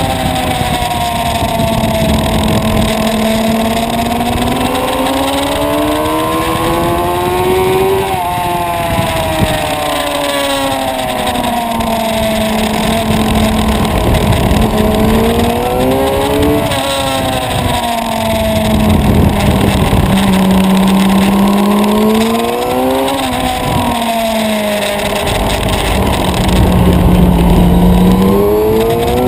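Suzuki sport motorcycle's engine heard from on board at speed, its pitch climbing and falling away several times as the rider accelerates, shifts and slows through the corners, over a steady rush of wind.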